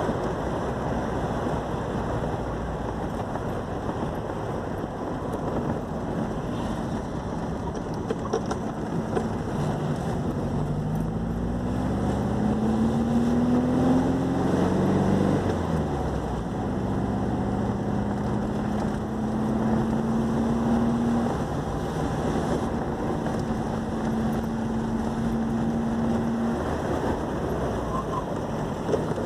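Air-cooled Volkswagen boxer flat-four of a Puma GTS running on the move under steady road and wind noise. Its note climbs in pitch for a few seconds about a third of the way in, drops away sharply, then holds a steady cruising note.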